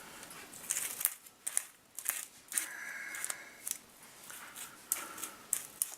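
Roomba 650 bristle brush roll being scrubbed with a small cleaning brush to work tangled hair off it: a string of short scratchy strokes, about two a second, uneven.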